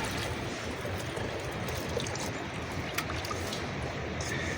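Steady rain falling on the shelter, an even hiss with a few light ticks.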